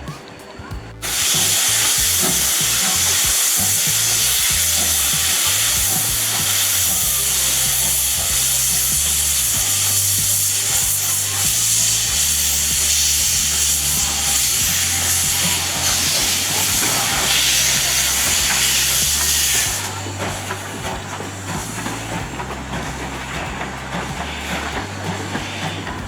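Steam locomotive releasing a loud jet of steam: a strong, even hiss that starts suddenly about a second in and cuts off abruptly near 20 seconds.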